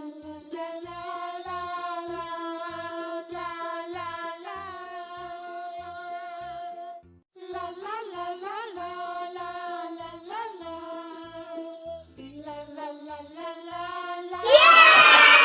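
Background music for children: a high, wordless sung or hummed melody of long held notes over a faint, soft beat, breaking off briefly about halfway. Near the end a much louder sound cuts in, with many pitches sliding downward together.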